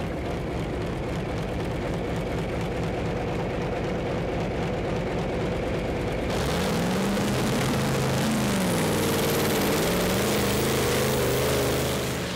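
Competition pulling tractor's engine running with a steady, fast pulsing note, then about halfway in going to full power as it starts hauling the weight sledge: louder and harsher, its pitch rising, dipping and wavering under the heavy load.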